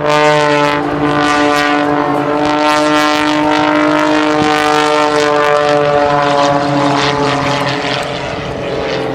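Propeller airplane's engine running loud and steady overhead, a droning pitched note that drifts only slightly.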